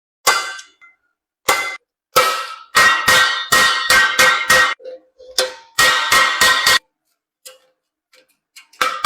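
Hammer blows on a galvanized sheet-iron water ladle, each strike sharp with a metallic ring. A few spaced blows, then quick runs of several strikes a second, then a pause of about two seconds near the end before the blows start again.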